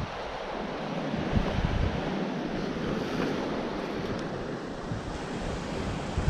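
Sea waves washing on the shore, with gusts of wind on the microphone.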